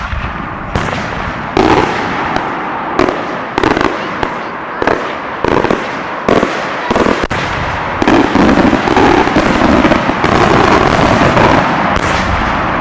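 Multi-break aerial fireworks shell bursting: one loud bang, then a rapid string of sharp breaks about every two-thirds of a second, merging into a dense continuous din of breaks from about eight seconds in.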